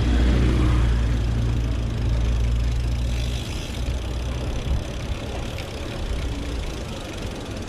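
A motor vehicle's engine running close by, a low rumble that eases off after about four seconds.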